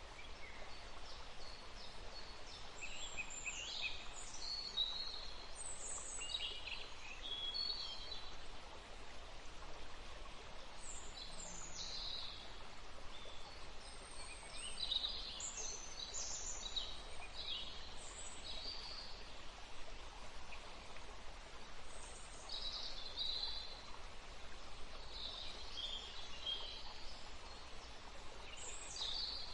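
Several small birds chirping and twittering in short calls, on and off, over a steady background hiss.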